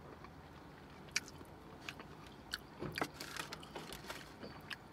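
A person biting and chewing a sub sandwich close to the microphone: faint, scattered wet mouth clicks and smacks, coming more often in the second half.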